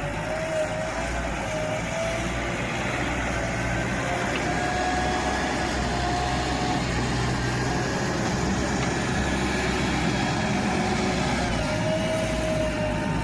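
Heavy diesel engine of earth-moving machinery running steadily under a constant low rumble, with a thin wavering whine coming and going above it.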